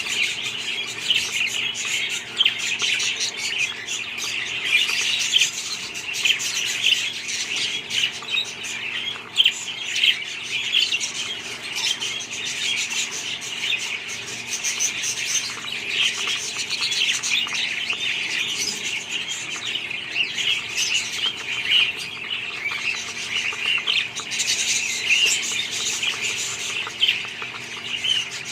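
A flock of budgerigars chirping and chattering continuously in a dense, overlapping warble of short high calls.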